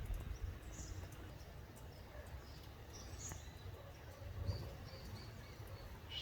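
Faint outdoor ambience: a low wind rumble with scattered short, distant bird chirps.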